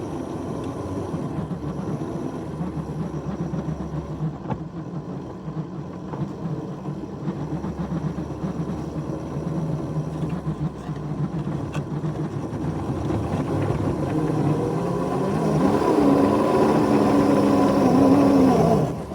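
Engines of a small ride-on railroad train, two locomotives double-heading, running steadily as they push through heavy wet snow. Near the end they get louder and strain under load, then the sound drops off sharply as the train bogs down and gets stuck.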